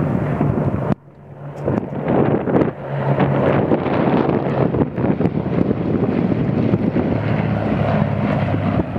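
Heavy wind buffeting the microphone over a steady low engine drone of aircraft flying past. The sound drops out abruptly about a second in and swells back up over the next second or so.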